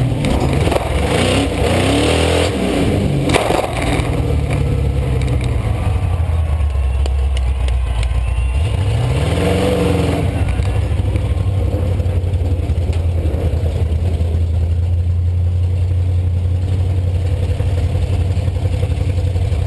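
Monster truck engine revving, with a few sharp knocks and clatter in the first few seconds, then revving up and back down once about halfway through before settling into a steady idle.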